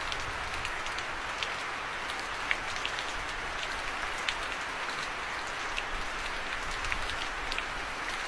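Falling water pattering steadily on surfaces, with scattered sharp drip ticks.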